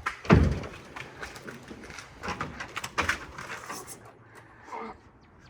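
An 800-pound Honda Gold Wing being pushed by hand up the steel deck of a flatbed rollback tow truck: a heavy low thump a moment in, then scattered knocks and clanks, with a sharp one about three seconds in.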